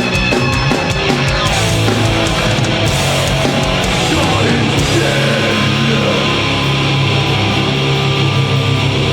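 Heavy metal band playing live, drums and electric guitars together, with rapid drum hits in the first second or two, then the guitars holding steady low chords.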